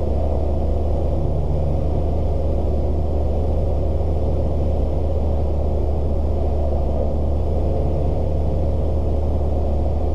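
Cessna 172S's four-cylinder Lycoming IO-360 engine and propeller droning steadily in the cockpit, heard through the intercom audio feed.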